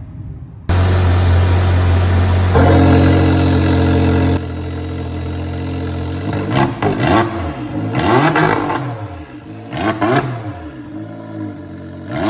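Can-Am Maverick R's turbocharged engine and exhaust held at a steady speed, stepping up briefly and then dropping back, followed by four throttle blips that rev it up and let it fall back about every second and a half to two seconds.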